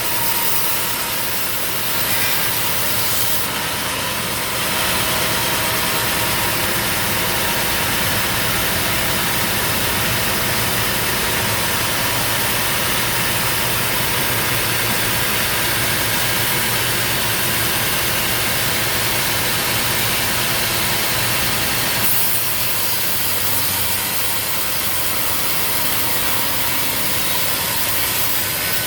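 Sawmill machinery running steadily, an engine drone mixed with saw and wood noise. It gets a little louder about four and a half seconds in and eases slightly after about 22 seconds.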